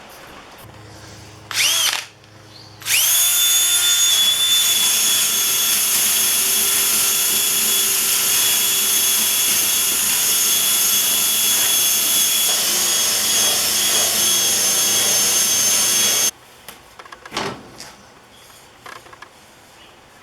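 Electric handheld power tool with a drill-type motor: a short trigger blip that spins up and back down, then it runs up to speed and holds a steady high whine for about thirteen seconds before cutting off suddenly.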